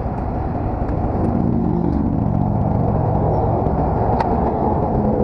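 Semi truck's diesel engine running as the tractor backs up to engage a removable-gooseneck trailer, its note strengthening about a second in. A single sharp click about four seconds in.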